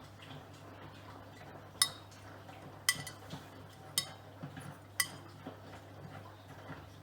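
Miele Professional PW6065 Plus washing machine during a wash cycle: four sharp metallic clinks about a second apart, like a zip or button on the laundry striking the turning drum, over a low steady hum.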